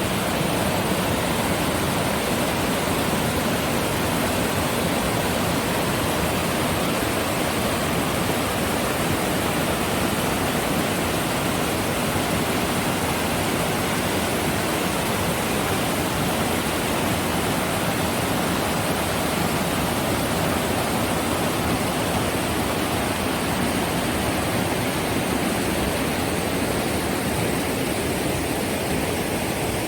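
Loud, steady rush of whitewater from the Green River.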